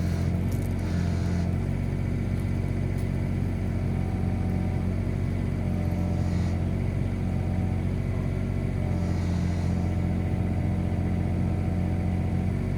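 Komatsu PC16 mini excavator's diesel engine running steadily while the bucket is worked, with a few short faint hisses now and then.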